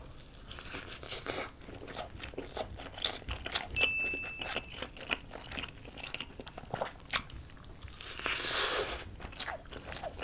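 Close-miked biting and chewing of a giant steamed meat dumpling: soft wet mouth sounds with many small clicks, and a louder rushing noise lasting about a second near the end.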